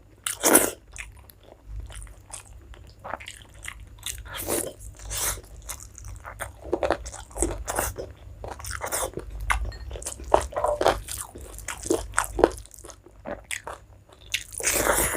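Close-miked chewing and mouth sounds of someone eating a rice meal with curries: irregular short smacks and bites, with a few louder ones.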